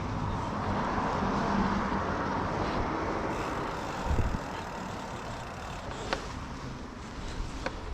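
Steady rushing noise of a moving vehicle on the road, with a low thump about four seconds in and a couple of sharp clicks near the end.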